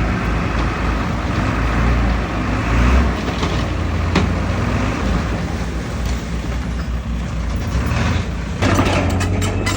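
Heavy diesel engine of earthmoving machinery running steadily, with one sharp knock about four seconds in. Near the end the engine gets louder and a rapid series of metallic clicks and clanks begins.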